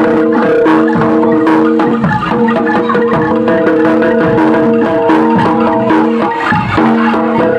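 Loud music of struck, tuned mallet percussion and drums: ringing held notes under a fast run of strikes.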